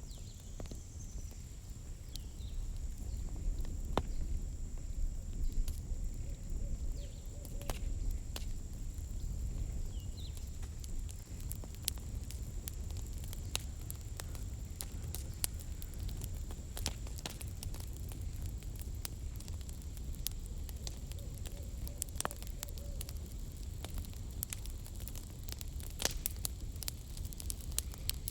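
Wood campfire crackling, with sharp pops scattered all through, coming thicker near the end, over a low steady rumble.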